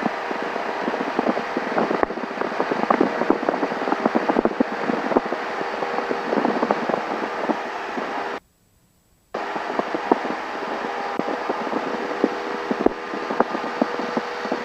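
Cessna 172's four-cylinder Lycoming engine running at full power on the takeoff roll and climb-out: a steady drone with a light rattle. The sound cuts out for about a second, about eight seconds in.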